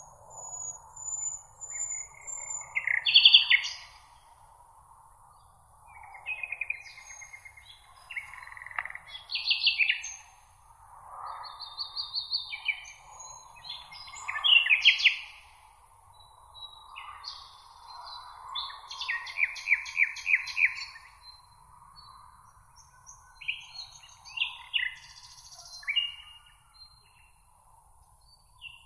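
Songbirds singing, a string of short, varied chirps and trills coming every second or two, over a steady high hiss and a soft continuous background noise.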